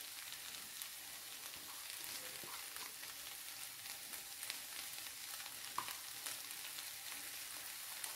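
Okra bhaji frying faintly in a pan over a gas flame: a soft, steady crackle with scattered small pops.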